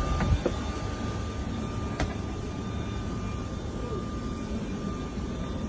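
Steady low engine rumble with a faint steady high whine, and a single sharp click about two seconds in.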